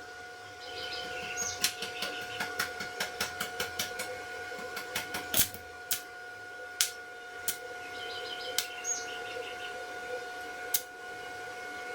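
A run of sharp clicks and taps, about four a second at first and then scattered single ones, over a steady high whine.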